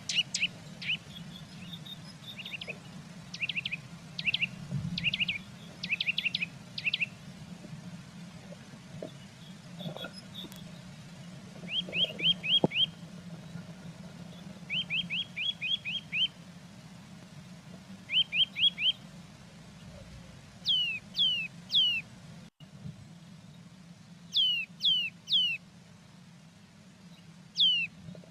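Small songbirds chirping and singing: clusters of short high notes, then several quick trills about halfway through, then clear notes that sweep sharply downward in pitch near the end. A low steady hum runs underneath.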